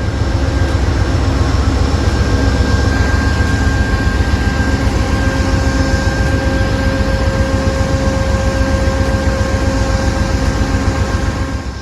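GE Genesis P42DC diesel locomotive standing at the platform with its prime mover running: a loud, steady deep rumble with several steady hums and a whine above it.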